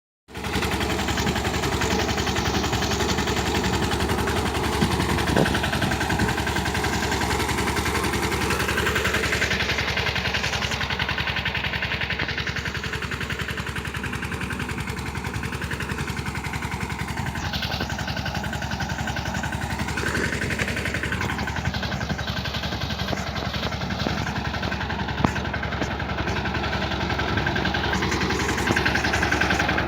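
Mini tractor engine running steadily at an even speed.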